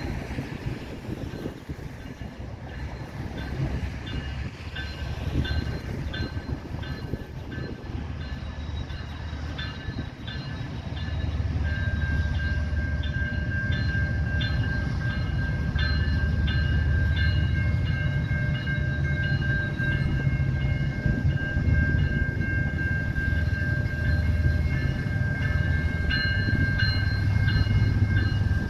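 Canadian National freight train of tank cars passing, with a low rumble that grows louder about 11 seconds in. High, steady squealing tones come and go over it, then hold on from about 12 seconds.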